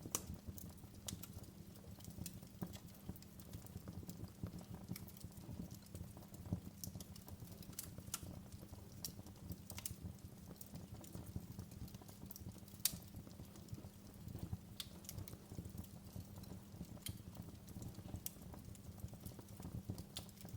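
Wood fire crackling in a fireplace: irregular sharp pops and ticks, a few louder ones, over a low steady rumble.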